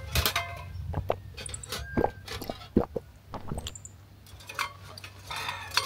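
Scattered small clicks, taps and clinks of drink cans and tableware being handled at a table, over a low steady hum.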